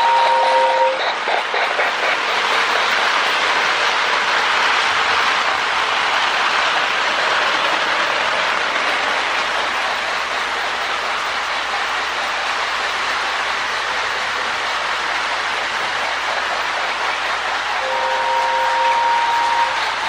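Lionel Union Pacific Berkshire model locomotive running on its track, with its MPC-era electronic sound board giving a steady steam-chuffing hiss paced to the engine's speed. The board's two-tone whistle is held at the start and stops about a second in, then blows again near the end.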